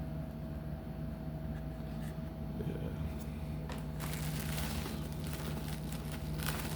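Plastic and cardboard packaging of a diecast toy car crinkling as it is handled, starting about four seconds in, over a steady low hum.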